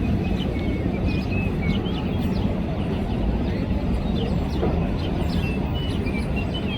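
Small birds chirping, many short chirps and brief whistled notes in quick succession, over a steady low rumble of background noise.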